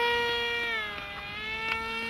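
RC model Cessna Skyline's motor and propeller whining in flight at a steady pitch. The pitch drops slightly and the sound gets a little quieter about a second in.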